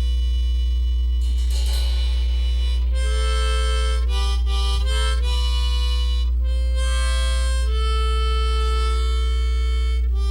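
Instrumental music led by a harmonica playing held notes and two-note chords in a slow melody, over a steady low drone.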